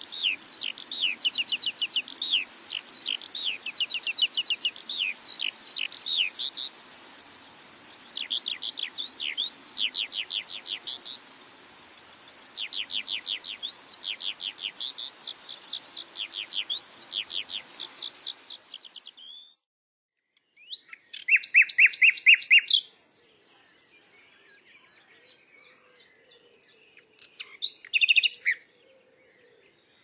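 Small songbird chirping and singing: a long run of rapid, short falling chirps and trills that stops abruptly about two-thirds of the way in. After a moment of silence come a brief burst of quick repeated chirps and, near the end, one more short call.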